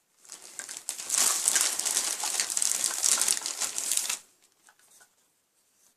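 Plastic packaging crinkling and rustling as the contents of a box are handled, for about four seconds, then it stops, with a few faint ticks after.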